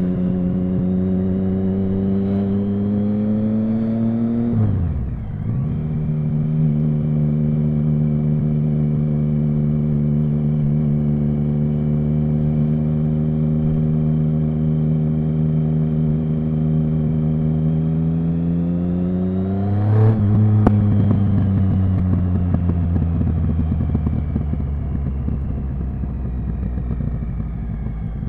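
Triumph Speed Triple 1050's inline three-cylinder engine under way. Its note climbs, drops sharply at a gearshift about five seconds in, holds steady while cruising, then climbs again to a sharp crack about twenty seconds in. After that the note falls slowly and grows a little quieter as the bike slows.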